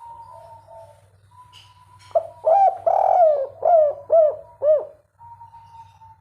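Spotted dove cooing: soft low coos at first, then, about two seconds in, a loud phrase of about six rising-and-falling coos lasting some three seconds.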